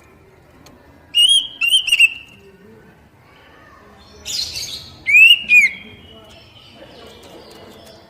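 Oriental magpie-robin (kacer) calling: three short, loud, arched whistled notes, then a harsh rasping note and two more arched whistles a second later.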